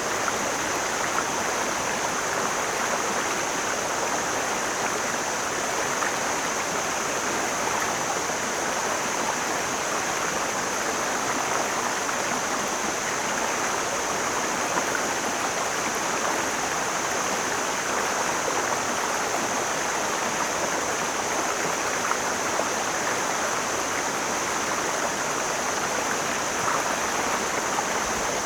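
Mountain stream flowing: a steady, even rushing of water, with a constant high hiss over it.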